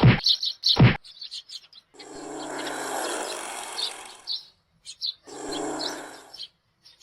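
Small birds chirping in quick, high chirps. Two sharp knocks come at the start and just before a second in, and two stretches of steady rushing noise follow, the first lasting a couple of seconds and the second about a second.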